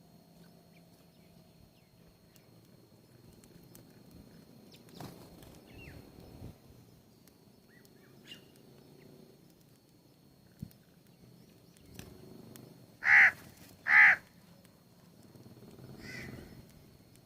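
A bird calling at a feeder: two loud, short calls less than a second apart late on, followed by a fainter third call, over a quiet outdoor background with a few small clicks.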